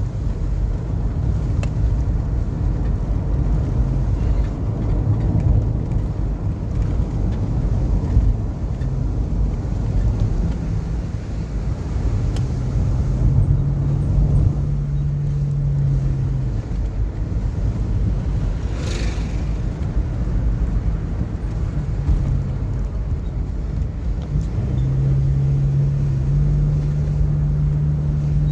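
A car driving along a road: steady engine and road rumble, with the engine's note rising and holding under load for a few seconds midway and again near the end. There is a brief hiss about two-thirds of the way through.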